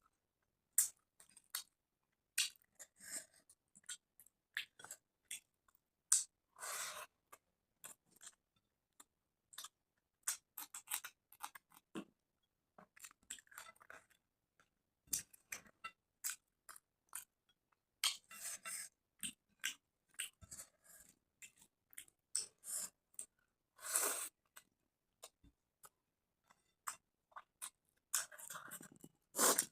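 Close-up eating sounds of rice and fish curry: irregular chewing and mouth smacks, with many short sharp clicks and a few longer wet smacks.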